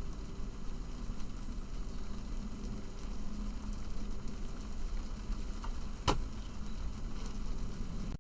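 Steady low background hum with a single sharp click about six seconds in.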